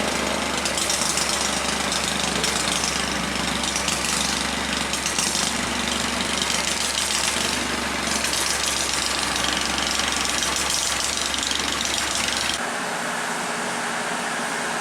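Excavator's diesel engine running steadily with a deep hum and a rattly mechanical noise. The deep hum cuts out abruptly near the end, leaving a lighter steady noise.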